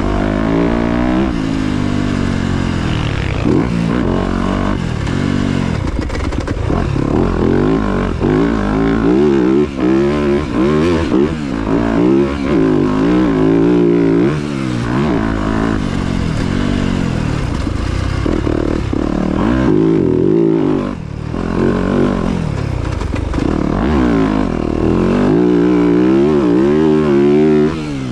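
Motocross dirt bike engines revving, their pitch rising and falling over and over as the throttle opens and closes.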